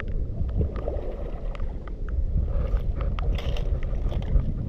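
Outdoor ambience dominated by a steady low wind rumble on the microphone, with scattered small sharp clicks and crunches throughout.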